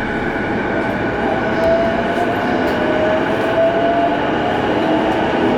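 Electric commuter train of the Keiyo Line running at speed, heard from inside the car: a steady rolling rumble with a high tone that slowly rises in pitch.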